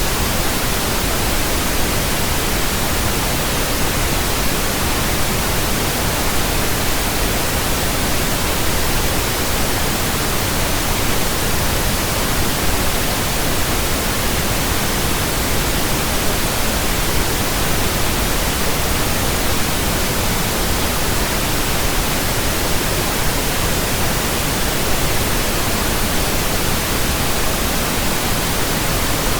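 Pink noise from a signal generator: a steady, even hiss spread across the whole range, used as a burn-in track for new speakers, headphones and earphones.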